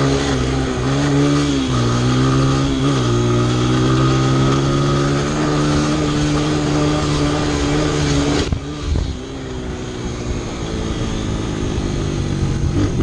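Honda CRF100F dirt bike's single-cylinder four-stroke engine running under way. Its pitch dips briefly three times in the first few seconds, then holds steady. About two-thirds of the way through, the throttle closes and the engine drops to a quieter, lower run.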